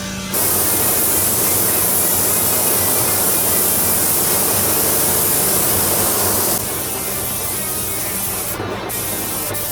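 A loud, steady spraying hiss that starts suddenly just after the start, then drops to a softer hiss about six and a half seconds in, with background music underneath.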